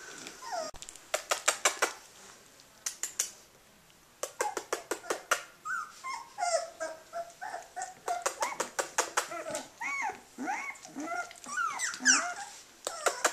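Young puppies, about 18 days old, whimpering and yelping: many short high calls that rise and fall, coming thick and fast from about five seconds in. Runs of rapid clicks are heard in the first few seconds.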